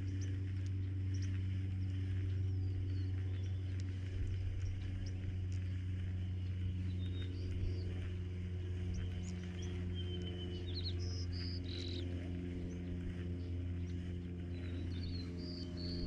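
Small birds chirping now and then over a steady low hum, the chirps coming thickest in the second half.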